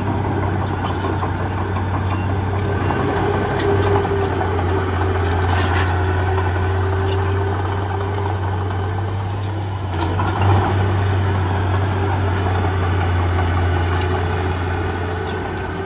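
Heavy diesel engine of earthmoving machinery running steadily, with scattered short clanks and knocks.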